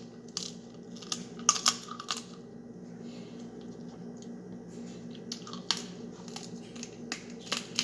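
Snow crab leg shells being cracked and broken open by hand: scattered sharp snaps and crackles, a cluster in the first two seconds and a few more later, over a low steady hum.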